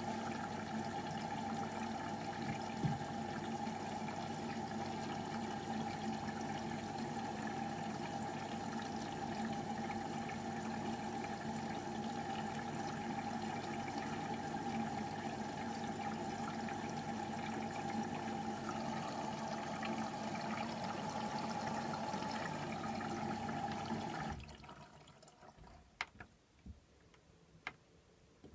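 Beko washing machine taking in water early in a 60°C cottons wash: a steady rush of water with a hum, which cuts off suddenly near the end, followed by a few faint clicks.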